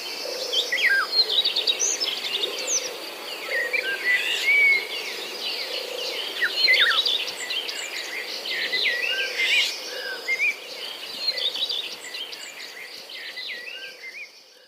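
Many songbirds singing and chirping together in a dense chorus of short, quick calls, fading out near the end.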